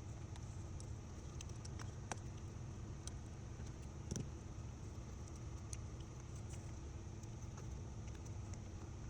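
Steady low background hum with a few faint, scattered clicks and ticks.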